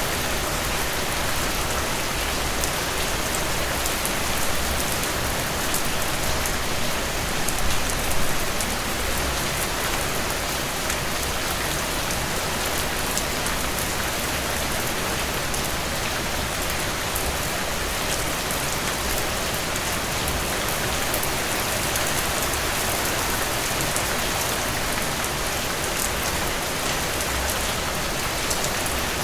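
Heavy rain pouring steadily onto surfaces, a dense even hiss with fine drop ticks, swelling slightly a few times in the first third.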